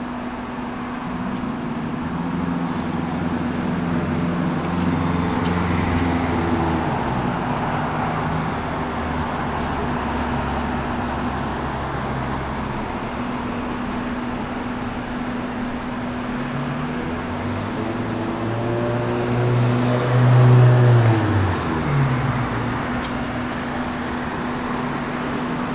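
Road traffic: car engines running and passing, loudest about twenty seconds in, over a steady hum.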